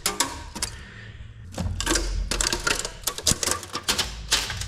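Irregular metallic clicks, clacks and knocks from tools and engine parts being handled on a diesel engine under teardown, with a low hum underneath from about a second and a half in.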